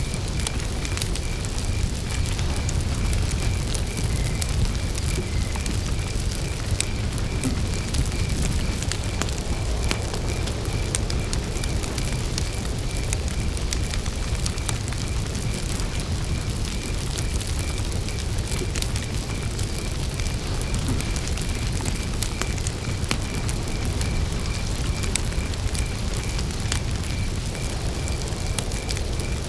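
Wood campfire burning with a continual crackle of small pops over a low rumble. A cricket chirps steadily in an even pulse, a few chirps a second.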